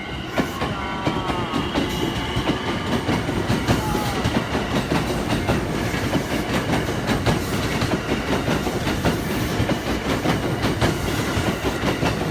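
JR Kansai Airport Rapid electric train running along the track, with a steady rumble and wheels clicking over the rail joints in quick succession. A faint whine rises a little in pitch during the first few seconds as the train picks up speed.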